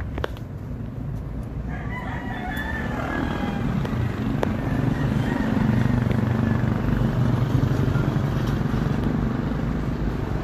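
A bird calling from about two seconds in, over a low steady rumble that grows louder in the second half.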